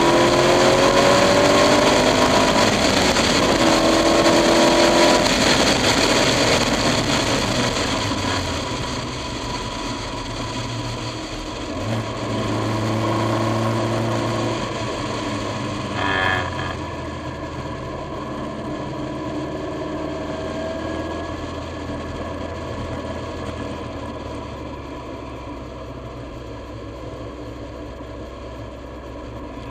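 KTM X-Bow's turbocharged 2.0-litre four-cylinder engine heard from the open cockpit, accelerating hard through the gears at first, then easing off so the engine note drops and quietens as the car slows, with wind rushing past. A short sharp knock sounds about halfway through.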